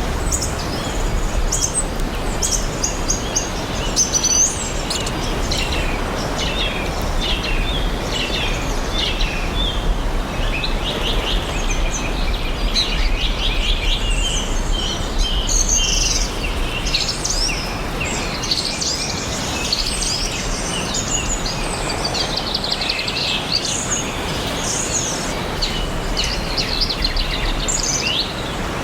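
Several small songbirds chirping and singing over one another in quick trills and short calls, over a steady background hiss and a low rumble that fades near the end.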